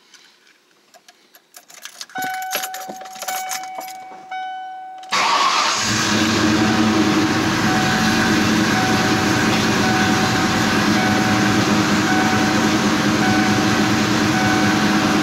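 Keys jangling and a dashboard warning chime sounding. About five seconds in, a built two-valve Ford modular V8 with Comp cams, FRPP headers and Flowmaster 50 Series mufflers fires up and runs steadily at idle, while the chime keeps pulsing.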